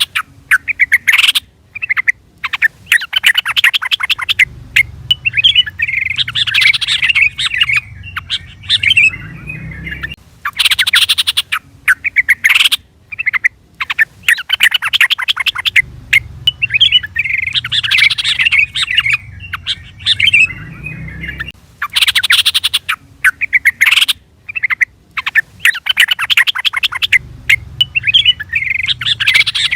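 Yellow-vented bulbul (trucukan) giving bursts of bubbly, chattering calls, in a sequence that repeats about every eleven seconds: a looped lure call.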